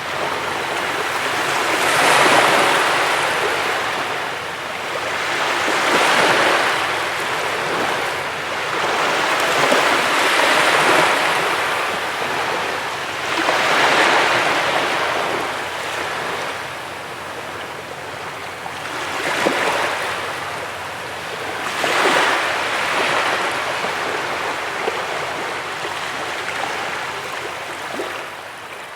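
Ocean waves breaking and washing onto a beach, a steady surf that swells and recedes every few seconds.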